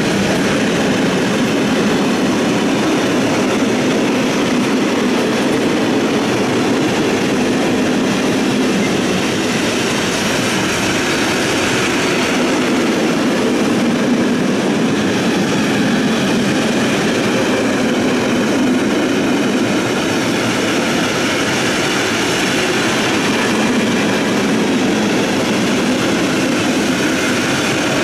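Loaded open coal wagons of a long freight train rolling past at steady speed: a continuous rumble of steel wheels on the rails that stays even throughout.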